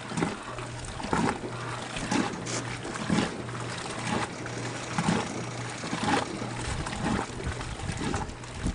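A 70-plus-year-old Kenmore wringer washing machine running: a steady electric motor hum with water splashing and sloshing in pulses about once a second.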